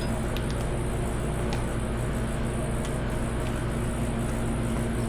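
A steady low machine hum of shop background noise, made of several even tones, with a few faint light ticks of tools or parts being handled.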